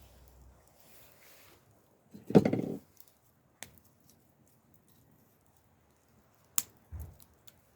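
Wood fire burning with occasional sharp crackling pops. A louder dull thump with a short rustle comes a little over two seconds in, and a softer thud near the end.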